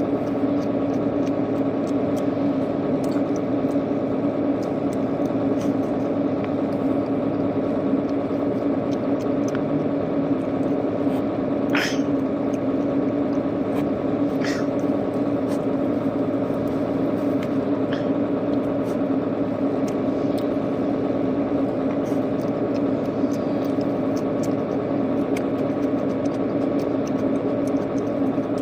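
Steady mechanical hum of an unseen machine, running evenly throughout, with a few short clicks about twelve, fourteen and eighteen seconds in.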